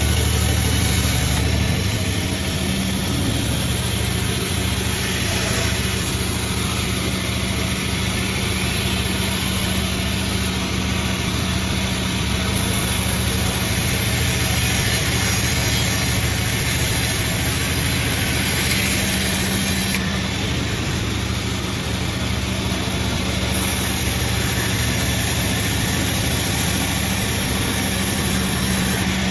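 Multi-blade sawmill running steadily, a continuous machine drone with a constant low hum.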